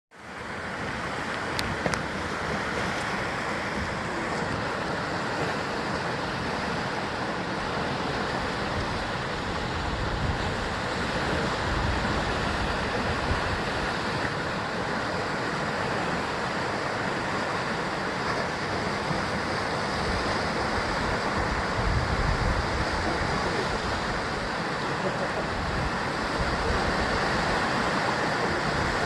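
Ocean waves surging and breaking against a rocky shore of basalt columns, a steady rushing wash with heavier swells now and then.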